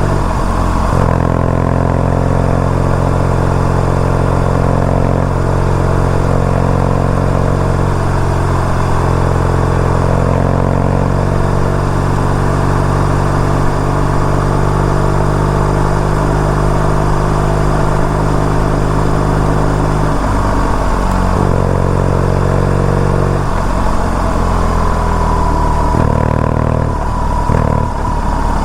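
BMW R nineT's boxer-twin engine running steadily while the bike is ridden. The engine speed changes a few times in the last third.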